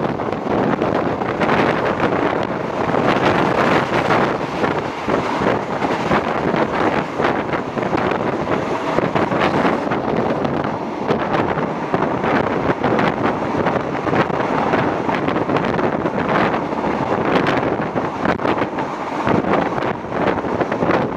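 Wind rushing over the microphone at the open window of a moving passenger train, mixed with the train's running noise and frequent knocks.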